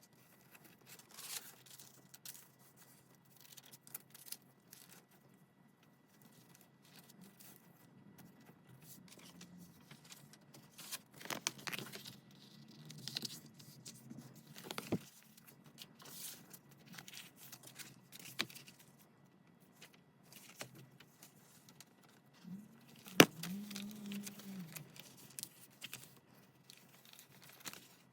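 Paper being handled and torn for a junk journal: intermittent rustling, tearing and scraping, with one sharp click late on.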